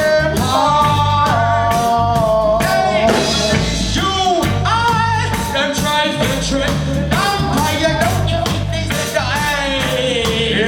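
Live reggae band playing the warm-up riddim: heavy bass and a steady drum beat with a melody line gliding over the top.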